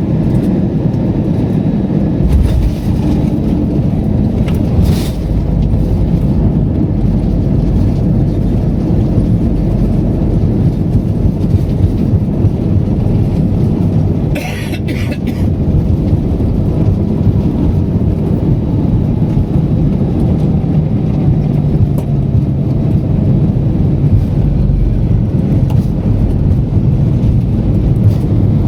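Steady, loud low rumble heard from inside a moving vehicle, with a brief hiss about halfway through.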